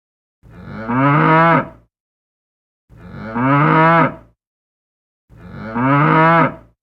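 A cow mooing three times, each moo about a second and a half long and falling in pitch, with dead silence between the calls.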